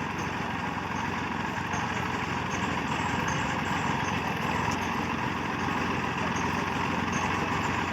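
Diesel engine of a Massey Ferguson 9500 Smart 58 HP tractor running steadily at an even speed.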